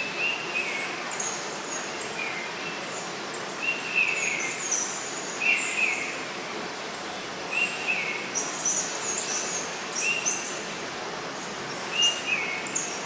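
Birds calling over and over, short chirping calls every second or two, over a steady rushing of water.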